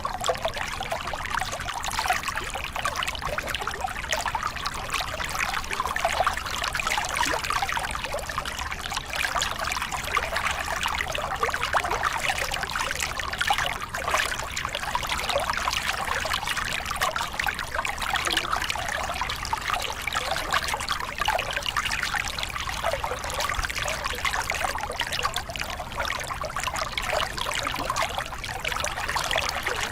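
Small cascade on a forest river: water spilling and splashing steadily over the drop, a continuous bright, bubbling rush with fine trickling detail.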